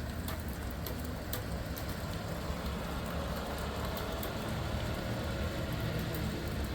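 Steady rain falling, with faint scattered drop ticks over a continuous low rumble.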